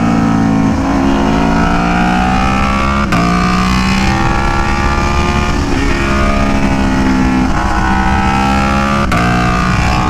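Aprilia Tuono V4 1100's V4 engine pulling hard under acceleration, its pitch rising through the revs, with sharp upshifts about three seconds in and again near the end.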